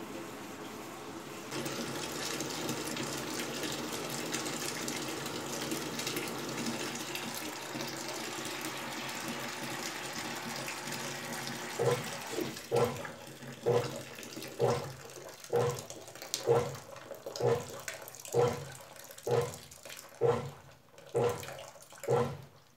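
Brastemp Advantech Wash washing machine on its wool/extra-delicate cycle: water pours steadily into the tub. About halfway through, the agitation starts, sloshing the water in regular strokes about once a second.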